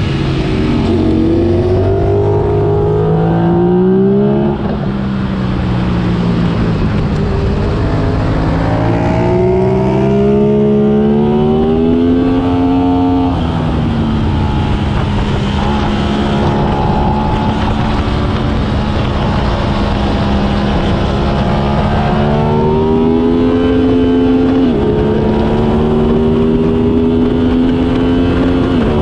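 Sport motorcycle engine heard from an onboard camera on a racetrack, with constant wind rush. The revs climb and then drop back sharply at several gear changes, with a long stretch held at steady revs midway.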